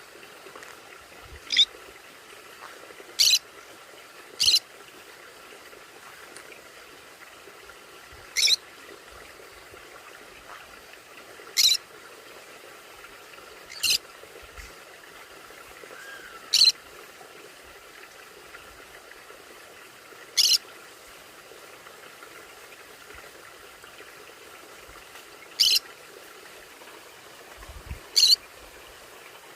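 Conure giving short, shrill single chirps, about ten of them at irregular intervals, over a faint steady hiss.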